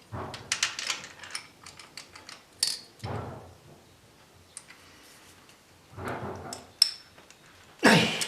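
Hand tools clicking, clinking and knocking against metal in a car engine bay while a stuck spark plug is worked loose, with a louder clatter near the end.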